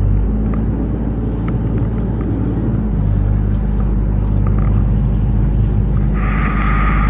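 Canal tour boat's engine running steadily with a low hum. A brighter hiss joins about a second before the end.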